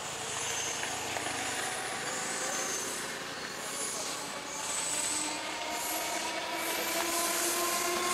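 Indian Railways ICF electric multiple unit (EMU) local train approaching, with intermittent high-pitched wheel squeal over the running noise, growing louder. A faint whine rises slowly in pitch through the second half.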